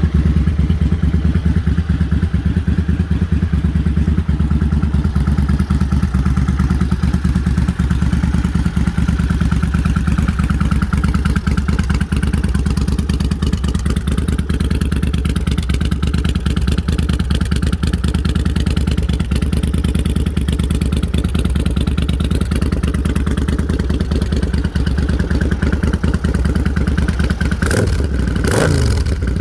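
2001 Suzuki Marauder VZ800's 45-degree V-twin idling steadily through aftermarket Cobra exhaust pipes. Near the end there is a brief change with a quick drop in pitch.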